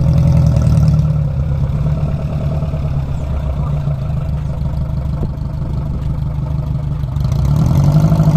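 VW bus engine running steadily as the van drives, swelling louder near the start and again near the end as it revs.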